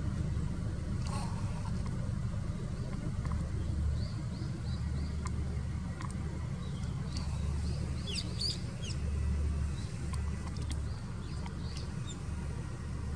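Short, high songbird chirps and quick falling call notes, scattered and bunching into a burst about eight seconds in, over a steady low rumble.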